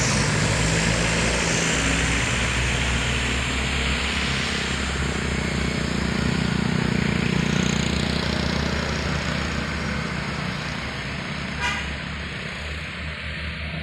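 Heavy vehicle passing close with its engine working hard under load, a dense running noise that slowly fades toward the end, with a brief sharp sound a little before the end.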